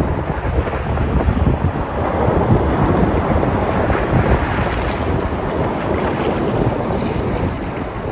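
Sea surf: waves breaking and washing on the shore, a steady rushing with wind buffeting the microphone.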